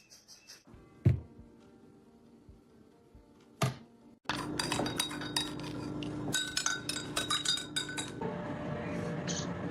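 Two sharp knocks, then from about four seconds in a run of rapid clinking and tapping, like hard objects knocked together.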